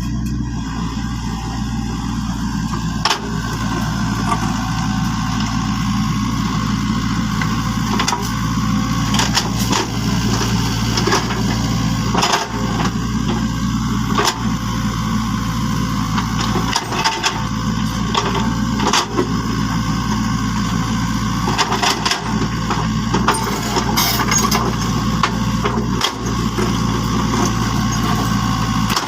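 Small motor of a miniature model construction machine running steadily, with scattered sharp clicks and knocks.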